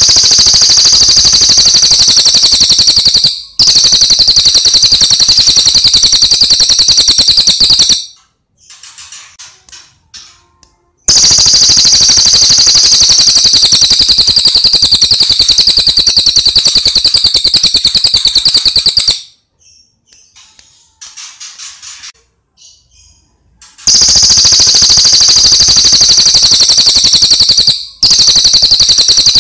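A recorded songbird's rapid-fire trill, a long machine-gun-like run of very fast repeated high notes, played very loud in long bouts. Between bouts, pauses with faint short chirps.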